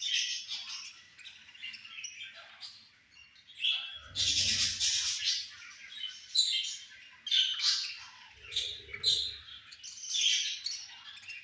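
Several budgerigars chirping and squawking at once in short overlapping calls, with a louder, harsher burst about four seconds in.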